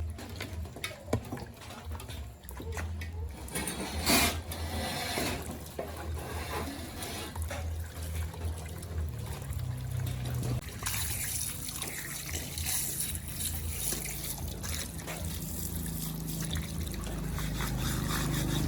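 Liquid trickling, with a sharp knock about four seconds in and a steadier hiss from about eleven seconds in.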